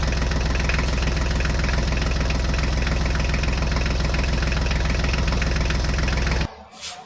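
Engine idling steadily with a fast, even knock, then cutting off suddenly shortly before the end.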